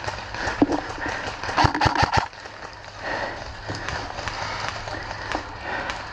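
Footsteps of a player moving at a jog, with gear rustling, and three sharp cracks in quick succession about two seconds in.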